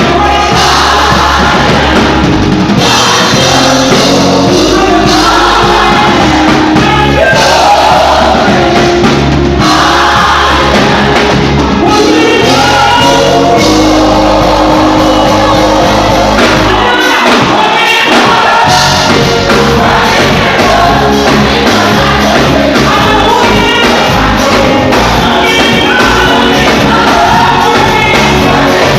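Live gospel praise music played loud: several voices singing over a band with a steady bass line. The bass drops out for a moment a little past halfway, then comes back.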